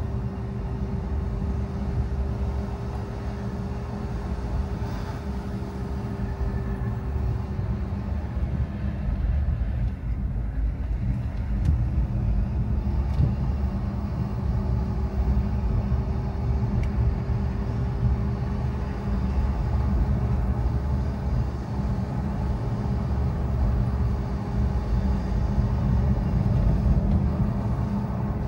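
Car driving: steady engine and road rumble, with a thin whine that falls in pitch about nine seconds in and climbs back a few seconds later.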